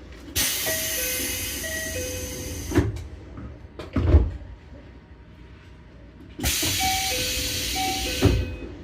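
Ichibata Electric Railway 7000-series railcar doors working at a station: a two-note door chime sounding twice over a loud hiss of compressed air, with a thud as a door shuts. The sequence happens twice, a few seconds apart.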